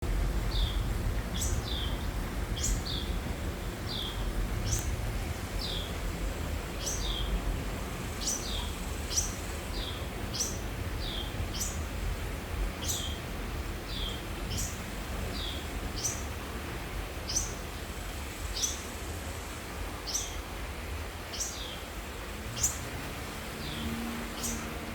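A bird repeating short, shrill calls that slide steeply down in pitch, about one a second, alternating higher and lower notes, over a low rumble.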